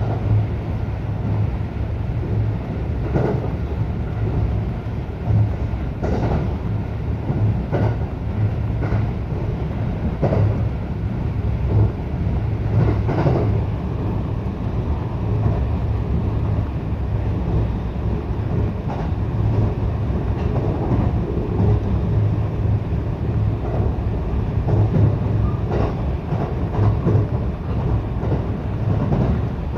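Local electric train running at speed, heard from inside the carriage: a steady low rumble of wheels on rail with an occasional clack from rail joints.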